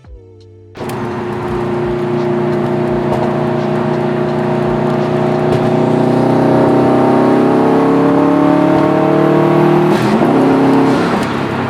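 Subaru WRX STI's turbocharged flat-four boxer engine starting up and running at a fast idle to warm up. It catches suddenly just under a second in, its pitch drifts slowly upward, then settles lower about ten seconds in.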